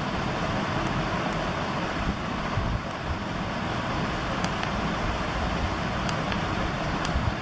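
Steady rushing wind and road noise from riding an electric bike, with a few faint ticks near the end.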